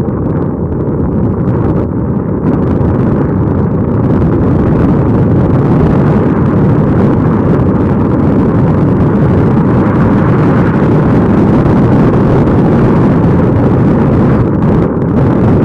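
Steady rumble of a moving vehicle with road and wind noise buffeting the microphone, getting a little louder about two and a half seconds in and again at about four seconds.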